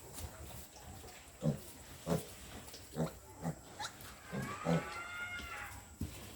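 Two-week-old piglets grunting in short bursts, about six grunts, with one drawn-out squeal that rises and falls about four seconds in.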